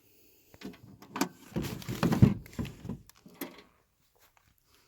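Handling noise of a boxed portable air compressor and its power cord being moved and turned over: a run of knocks, clatter and rustling, with the heaviest thump about two seconds in.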